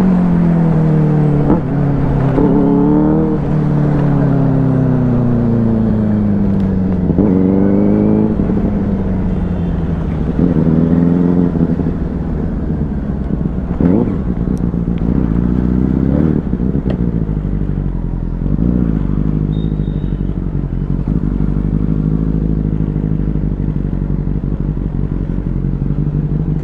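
Benelli 600i inline-four motorcycle engine, its pitch falling as the bike slows, with several quick rises in revs along the way. In the last third it settles to a steady idle.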